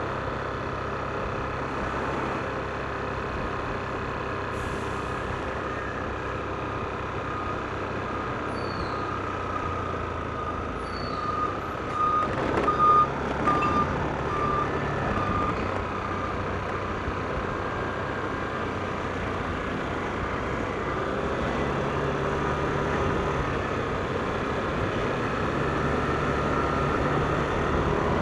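Yamaha NMAX scooter running at road speed, its engine drone and a steady high whine shifting a little in pitch as speed changes, over tyre and wind noise. A short run of quick beeps cuts in about halfway through.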